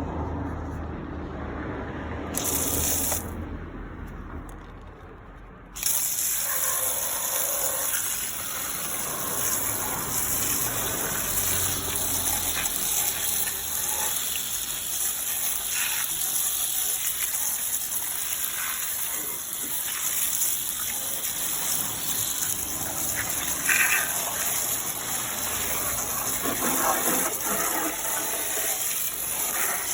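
Water spraying onto a car's engine bay, a steady hissing rush that starts suddenly about six seconds in and keeps on with small changes as the spray moves around.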